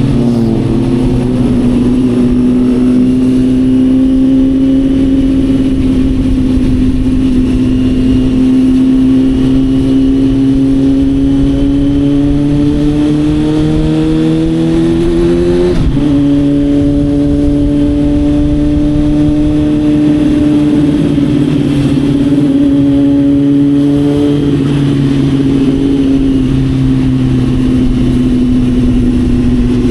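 Motorcycle engine heard from an action camera on the bike, pulling at steady revs with its pitch climbing slowly, then changing abruptly about halfway through before holding and easing slightly. Constant wind rush runs underneath.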